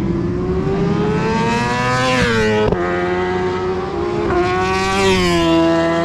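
1000 cc superbike racing motorcycles accelerating hard past at full throttle. The engine note climbs and drops sharply about two seconds in, then climbs and falls again near the end as more bikes go by.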